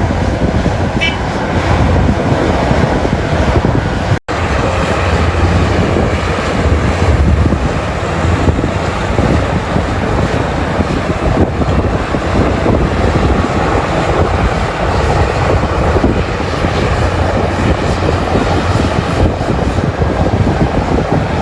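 Heavy diesel mining excavator working as it loads haul trucks: a loud, steady machine drone with strong low rumble. The sound cuts out for an instant about four seconds in.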